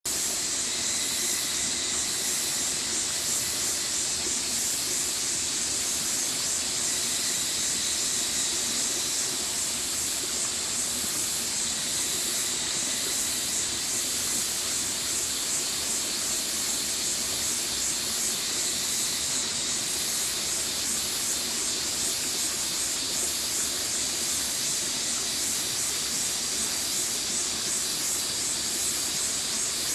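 Stream water flowing, a steady hissing rush with no break.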